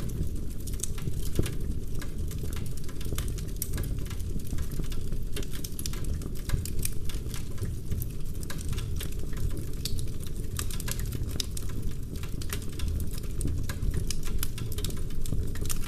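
Wood fire burning in a fireplace: constant dense crackling with many small sharp pops over a low steady rumble.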